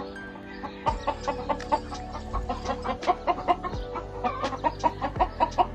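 Gamefowl chickens clucking over background music with held notes and a quick, steady beat.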